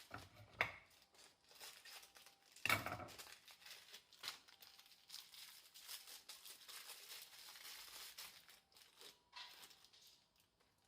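Wrapping crinkling and tearing, with scattered light clicks and a louder knock about three seconds in, as small parts are handled.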